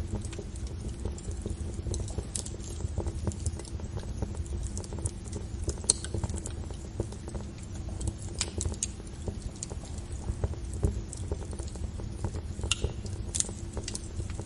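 Fire burning: a steady low rumble with frequent, irregular sharp crackles and pops, one louder pop about six seconds in.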